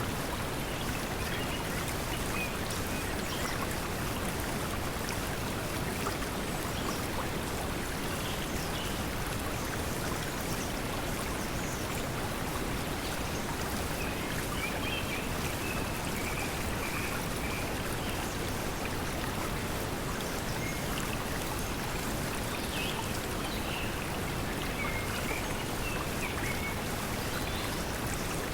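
Steady pink noise mixed with flowing water, with faint bird chirps scattered through it.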